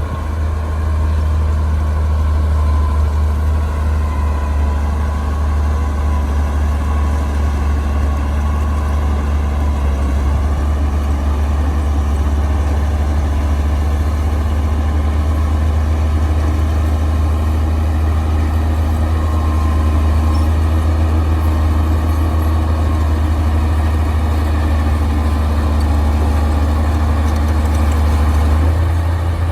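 Heavy diesel bulldozer engine running steadily with a deep, even hum.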